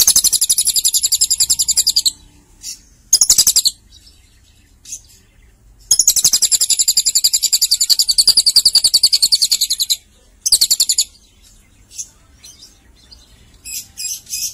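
Lovebird singing long, high, rapidly pulsed chattering trills in bursts: one of about two seconds, a short one, a long trill of about four seconds in the middle, then another short one, with a few quieter chirps near the end.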